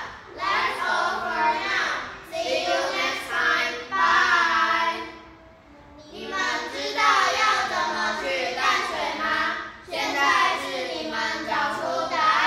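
Children's voices singing a song in short phrases, with a brief pause about five seconds in.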